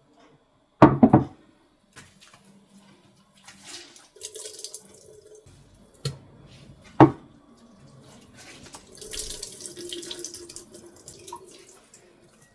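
Kitchen tap running in short spells into the sink, with a loud clatter of dishes about a second in and a single sharp knock around seven seconds.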